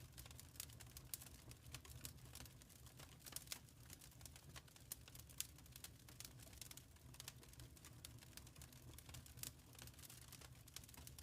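Wood fire crackling faintly: irregular sharp snaps and pops, a few louder than the rest, over a low steady rumble.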